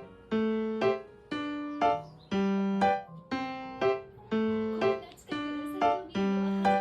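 Background music: a simple melody on an electric piano or keyboard, single notes struck about twice a second, each ringing out and fading before the next.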